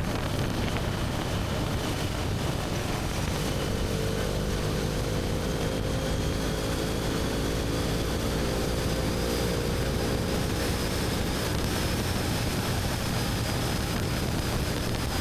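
BMW R1250GS Adventure's boxer-twin engine running at a steady cruise through its Akrapovic slip-on exhaust, with wind and tyre rush from riding. About three seconds in, a steady humming note joins and holds for most of the stretch.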